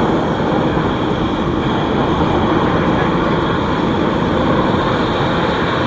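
Steady jet noise from the Blue Angels' F/A-18 fighter jets flying their display.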